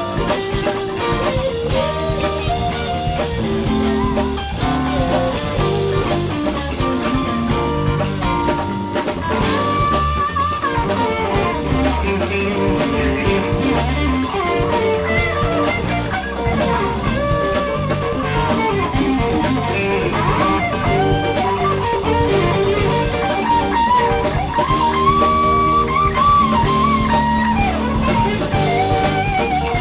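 Instrumental break of a blues-rock song with guitar and a drum kit, with no singing; the lead line has bending notes.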